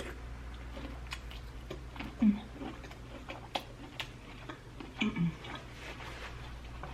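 Close-miked eating sounds of spicy-sauced prawns being sucked and peeled by hand: irregular small clicks and crackles of prawn shell and wet mouth sounds. Two short low voiced hums come about two seconds in and again near five seconds.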